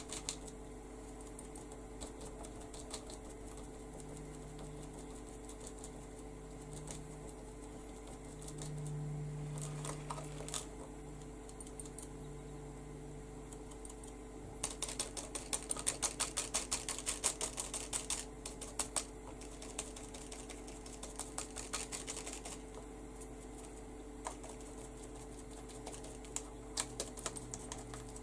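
Makeup sponge dabbing colour through a stencil onto paper: quick light taps in runs, busiest a little past halfway through, over a faint steady hum.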